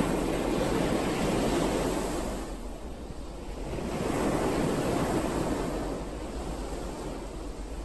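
Ocean waves washing onto the shore, a steady rushing surf that swells and recedes: one wave surges in the first couple of seconds, eases off around three seconds in, and another swells up about four seconds in before easing again.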